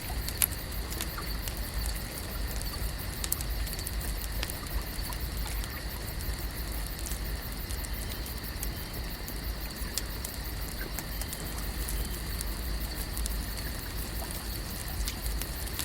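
Lake ambience at night: a steady high-pitched hum over a low rumble, with scattered sharp crackles and clicks throughout.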